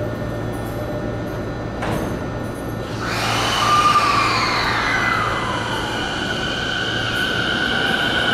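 JR Keiyo Line electric train moving through an underground station. There is a single knock about two seconds in. About three seconds in the train noise swells, with several whining tones that fall in pitch and then settle into steady tones.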